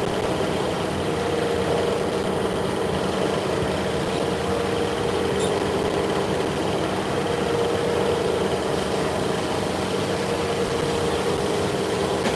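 Machinery running with a steady hum and a steady mid-pitched tone, unchanging throughout.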